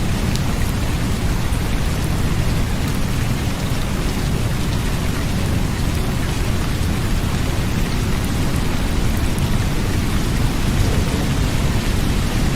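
Steady rain with a constant deep rumble underneath, unchanging throughout.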